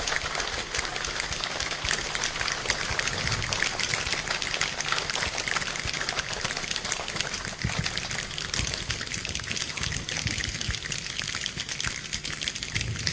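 Rain falling, a dense patter of many small drops that grows lighter in the second half.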